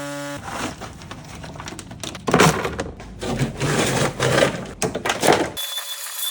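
Dry ice blasting gun hissing in uneven, gusting blasts as it cleans built-up grime off the car. Near the end the blasting cuts off abruptly and is replaced by a faint steady high whine.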